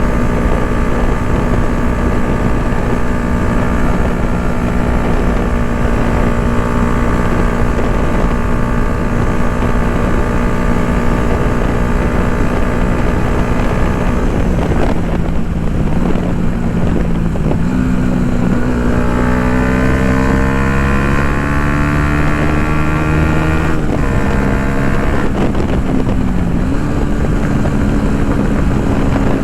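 Yamaha MT-125's single-cylinder 125 cc four-stroke engine running through an Akrapovic full exhaust while riding, with wind on the microphone. It holds a steady note for about half the time, then the pitch dips and climbs as the bike speeds up, dropping sharply at a gear change and climbing again near the end.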